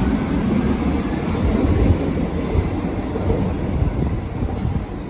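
Berlin U-Bahn large-profile train running on the track, a steady low rumble that eases a little near the end.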